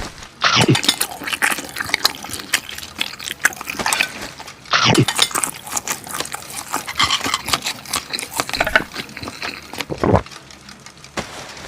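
Close-miked eating: wet chewing and slurping, made up of many small crackling mouth clicks, with a few louder bites or gulps about half a second, five seconds and ten seconds in.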